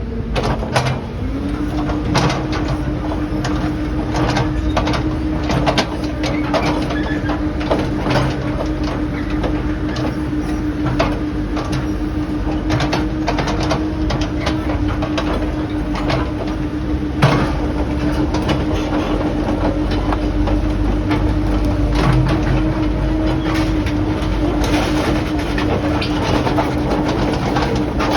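Cat 308E2 mini excavator running, its engine stepping up to a higher steady pitch about a second in and holding there, with frequent sharp clanks and knocks throughout.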